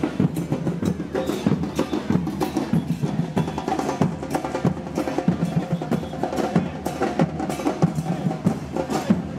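Murga carnival percussion: bass drums with cymbals and snare drums playing a fast, driving rhythm of dense, evenly repeated strikes.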